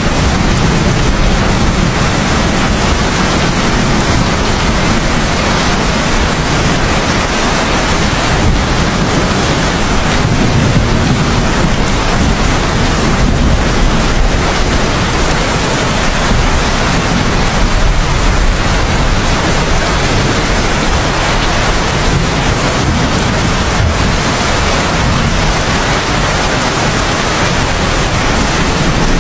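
Heavy rain falling steadily, with a low rumble of thunder swelling and fading underneath.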